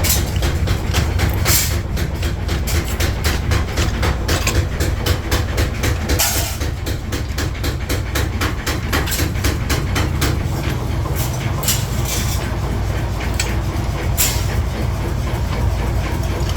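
Metal-forging workshop machinery: a steady low hum under rapid, irregular metallic knocks and clatter.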